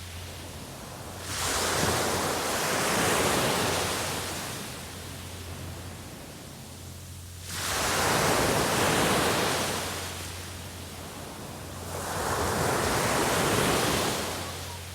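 Sea waves breaking on the shore: three surges of surf about five seconds apart, each coming in suddenly and washing away over a few seconds.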